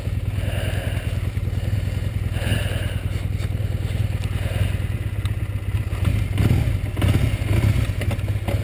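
Honda Rebel motorcycle engine idling steadily while the bike stands still, with a few short clunks about two-thirds of the way through.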